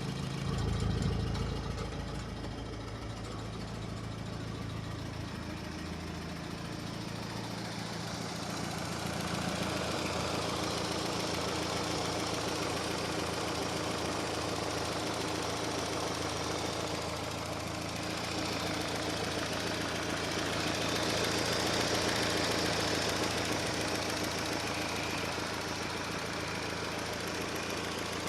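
Renault 25 engine, swapped into a Renault 12, running steadily. It grows a little louder about ten seconds in and again around twenty seconds.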